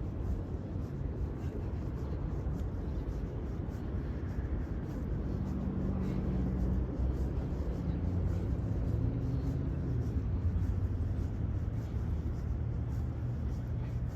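Steady low rumble of city road traffic. About five seconds in, a vehicle's engine hum comes up over it and grows slightly louder through the middle.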